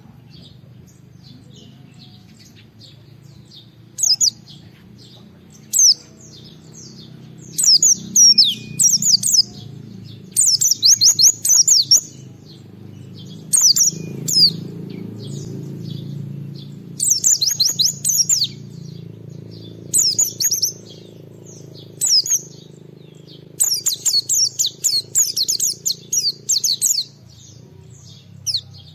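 White-eye (pleci) singing hard in rapid, high twittering phrases, a dozen or so bursts with the longest running about three seconds, over a low steady hum. It is the full, vigorous song of a bird in top form, challenging a rival.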